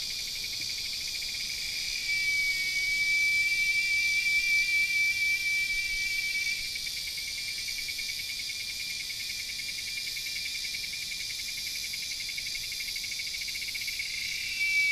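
Insects trilling in a steady high-pitched chorus, with one louder, nearer trill at the same pitch from about two seconds in to past six seconds, and again near the end.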